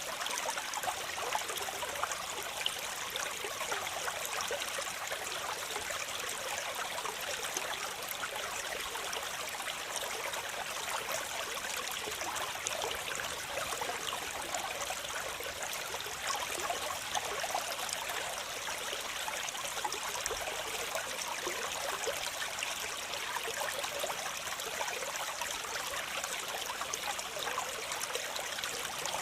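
Waterfall water falling and splashing in a steady, even rush, mostly hiss with little low rumble.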